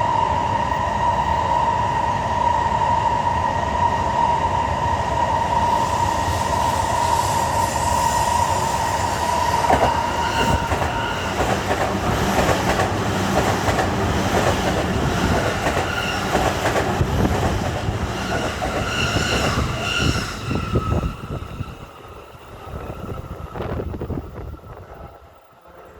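Shinkansen bullet train running past at low speed, starting with a steady high whine. About ten seconds in, its wheels begin clattering over the rails with shifting whines. The sound dies away sharply a few seconds before the end.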